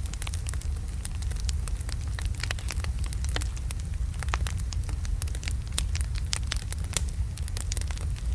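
Wood logs burning in a fireplace: frequent irregular crackles and pops over a steady low rumble of the fire.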